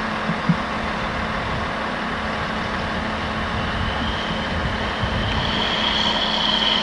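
Heavy vehicle engine running steadily with a low hum, joined about four seconds in by a high whine that grows louder toward the end.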